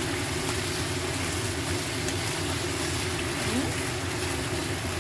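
Chicken, shiitake mushrooms and tofu skin sizzling in oil in a wok as they are stirred, over a steady low rumble.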